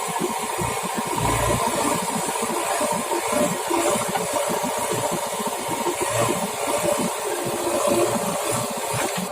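Heavy diesel engine running steadily, with a constant hiss over it.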